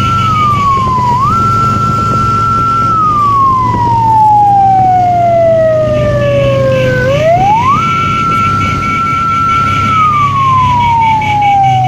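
A wailing siren-like tone. One high pitch is held steady, then slides down and swings quickly back up, with a short dip about a second in and a long slow fall of several seconds midway. A steady low hum runs underneath.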